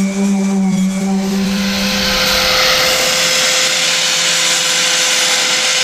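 Electric power tool running at a steady hum, then from about two seconds in a loud rushing hiss over a steady motor whine as the tool works against a surface.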